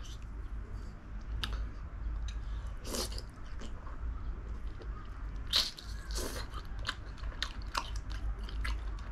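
Close-up chewing and mouth sounds of someone eating spicy braised chicken, with irregular short smacks and clicks, a few louder ones near the middle.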